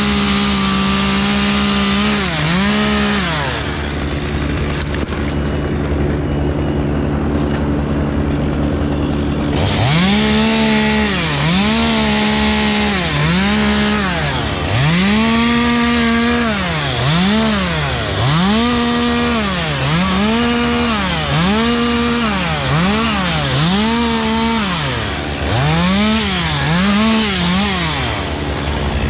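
Two-stroke chainsaw revving up to full throttle and dropping back in short bursts, about one a second, as it cuts through palm fronds. It briefly revs near the start, then runs steadily at a low speed for several seconds before the repeated bursts resume.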